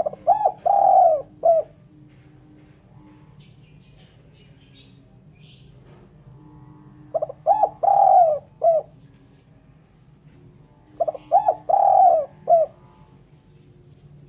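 Spotted dove (terkukur) cooing: three phrases, each a couple of short coos, a longer drawn-out coo and a clipped final note, the first at the start, the next two about seven and eleven seconds in. Faint high chirps of small birds come between the phrases.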